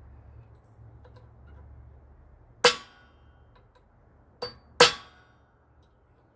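Three sharp metallic clanks with a brief ring: one, then two close together about a second and a half later, from metal tools or parts knocking together while a part is pressed into its seat.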